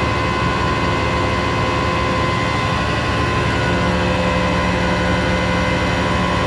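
Flatbed tow truck's engine running with a steady mechanical whine from its hydraulics as the winch pulls a car up onto the bed.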